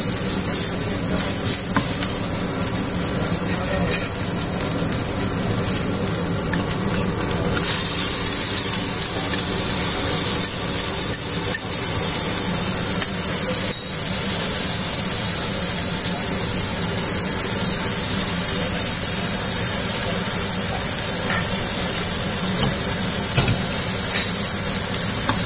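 Green chillies and curry leaves sizzling in hot oil in a non-stick frying pan, a steady hiss that grows louder about eight seconds in, over a steady low hum.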